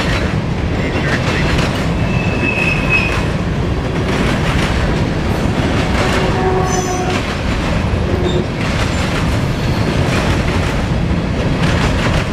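Freight cars of a grain train rolling past: steady rumble and rhythmic clatter of steel wheels on the rails, with brief high wheel squeals about two seconds in and again past the middle.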